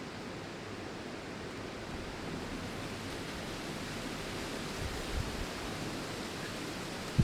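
Wind blowing through tree leaves, a steady rustling hiss, with a few low gusts rumbling on the microphone about five seconds in.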